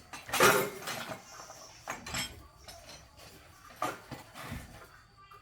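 A few irregular knocks and clinks of hard objects being handled, the loudest about half a second in.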